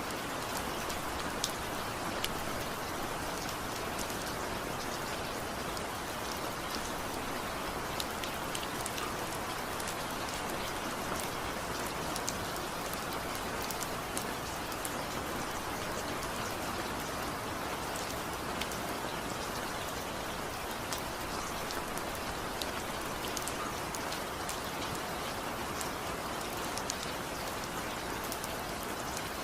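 Steady rain falling, an even hiss with many small drop impacts scattered through it.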